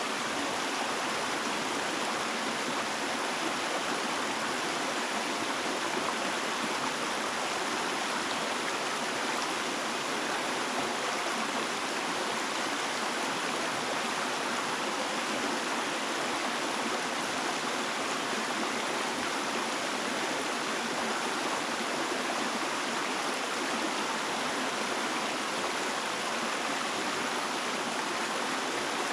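Running water of a stream, a steady even rush that holds the same level throughout.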